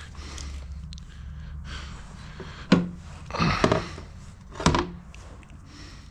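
Three clunks of hard parts being handled and set down, over a low steady hum.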